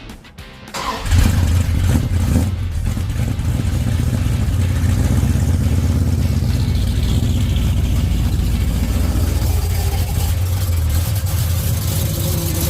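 A car engine starting about a second in, blipped twice, then settling into a steady, loud idle with a deep low rumble.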